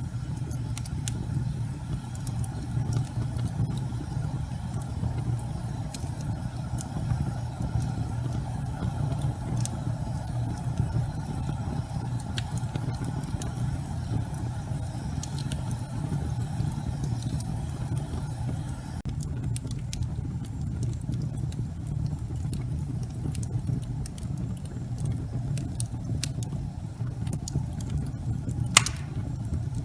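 Wood fire burning in a fireplace: a steady low rumble of flames with scattered sharp crackles and pops from the burning logs, one louder pop near the end.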